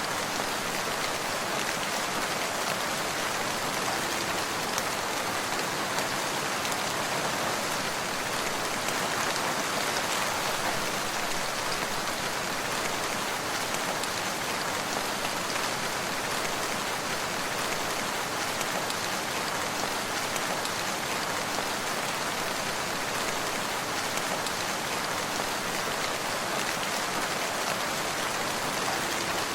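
Steady rain falling: an even, continuous hiss of many drops on surfaces.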